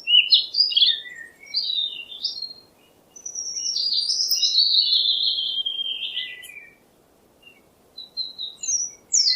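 Bird chirps and song. Quick high chirps come in the first two seconds, then a long warbling phrase slowly falls in pitch, and a few more chirps follow near the end.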